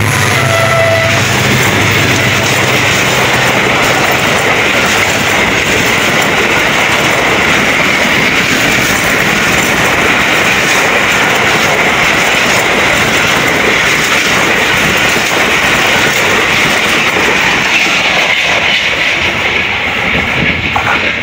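Express train passing at speed: the diesel-electric locomotive's engine is heard for the first few seconds, then a long loud run of coaches with the wheels clattering over the rail joints, easing off near the end.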